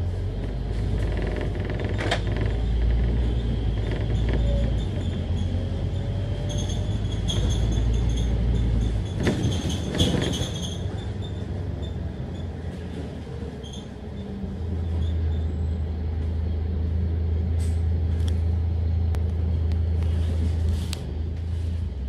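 Scania K310UD double-decker bus's five-cylinder diesel engine running, its note changing several times as the bus moves and slows. A short burst of hiss and clicks comes about nine to ten seconds in.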